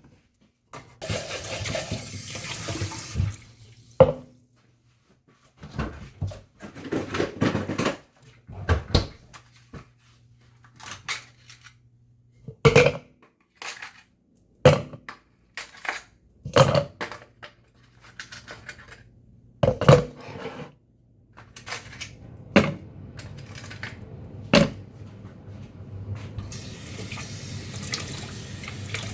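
Kitchen sink sounds: a tap runs briefly, then dishes and utensils knock and clink a dozen or so times over a low steady hum, and near the end the tap is turned on again and keeps running.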